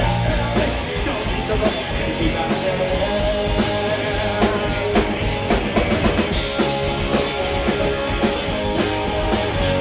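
Rock band playing live: drum kit, bass and guitars at full volume.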